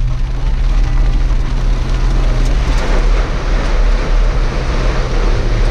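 Jeep engine running steadily under a loud, even hiss of rain.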